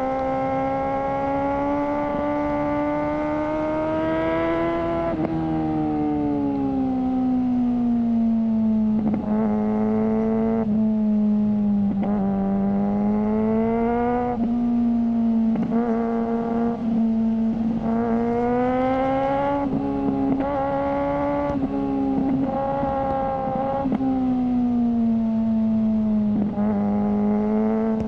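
Suzuki GSR600's inline-four engine, breathing through a GPR Ghost aftermarket exhaust, running at high revs under way. Its note rises and falls smoothly as the throttle opens and closes, and it turns harsher each time the throttle opens, over a steady rush of wind.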